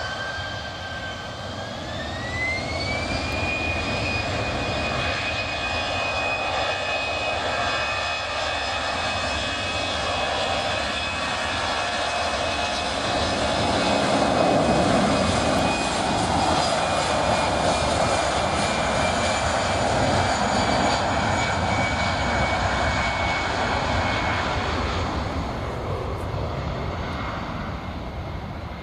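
Airbus A319 jet engines spooling up to takeoff power: a whine that climbs in two steps over the first few seconds, then holds steady over a loud rumble. The rumble is loudest about halfway through, and the whine and rumble fade near the end.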